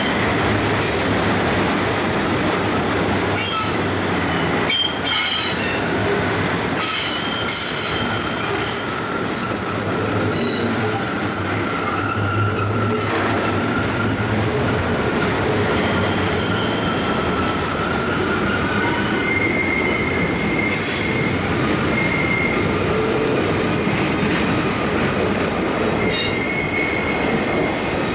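Freight train of rail flatcars loaded with long welded rail rolling past on a curve, the cars rumbling steadily while the wheels squeal in several held high-pitched tones that come and go.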